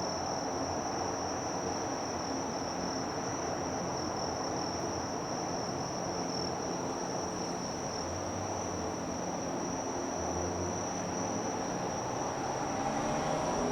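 Insects chirring in one continuous high, unbroken drone over a low, steady mechanical hum with several held pitches.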